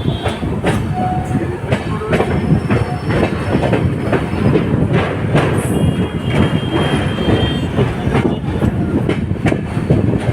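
Passenger express train running over a railway bridge: a steady heavy rumble with repeated clatter of wheels over the rail joints, and a faint thin squeal about six seconds in.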